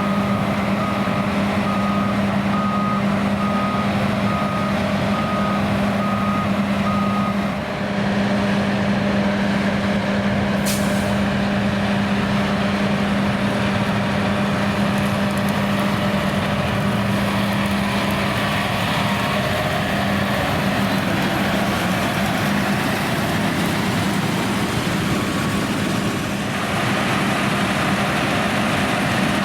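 John Deere X9 1100 combine harvester running with a steady, even drone, while a reversing alarm beeps at an even pace for about the first seven seconds. A single sharp click comes about eleven seconds in.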